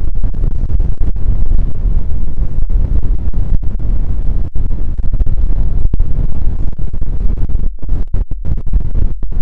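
Rode NT1 condenser microphone giving out a loud wind-like rumble with no wind present. The rumble is heaviest in the low end and broken by frequent brief dropouts, more of them near the end. It is a fault that drying the microphone with a hair dryer did not cure, and the owner suspects moisture in the microphone.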